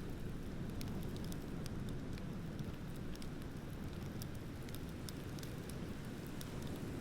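Wood bonfire crackling, with sparse sharp pops and snaps at irregular intervals over a steady low rumble.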